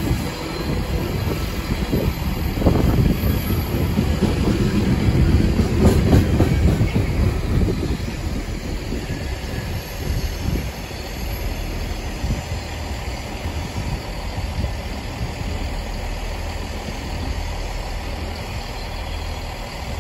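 Freight train of yellow Network Rail open wagons running past, a heavy rumble with wheels clicking over the track. The rumble fades after about eight seconds as the last wagons pass and the train draws away.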